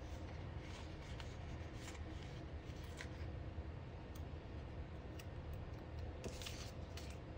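Quiet tabletop crafting on a paper planner: scattered light ticks and scratchy rustles, a short denser scratch about six seconds in, over a steady low room hum.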